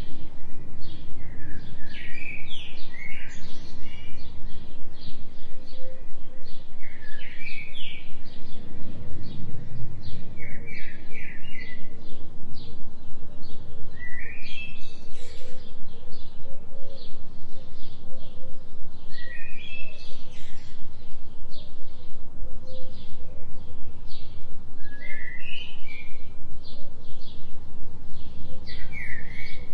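Birds chirping in short, repeated phrases every few seconds over a steady low drone, the binaural delta-wave tone laid under the forest recording.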